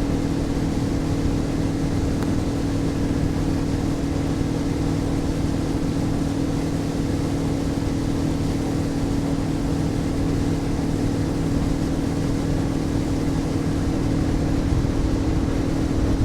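Motorboat engine running steadily at cruising speed, about 38 miles an hour, with a constant drone over the rush of wind and water.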